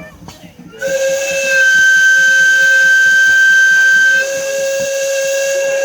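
Steam whistle blown in one long, steady blast of about five seconds, starting about a second in and sounding several notes together as a chord. The higher note is strongest in the middle of the blast and the lower note near the end.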